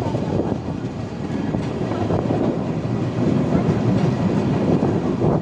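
Shatabdi Express train running along the track: a steady, dense rumble of the rolling coaches.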